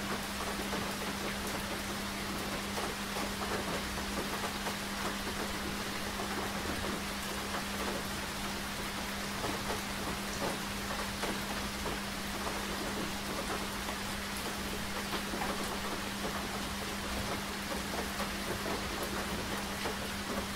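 Steady rain falling, with many small individual drop ticks over an even hiss. A faint steady low hum runs underneath.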